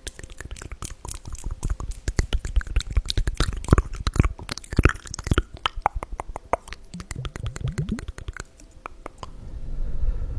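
Close-miked handling of small glass ampoules: a dense, irregular run of sharp clicks and taps, busiest in the first half, with a few short low rising squeaks later on.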